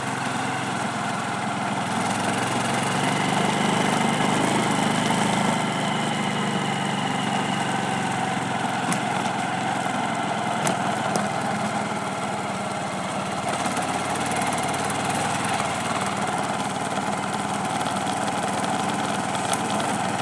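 A small vehicle engine running steadily while travelling over a rough road, with road and wind noise, getting a little louder about two to four seconds in.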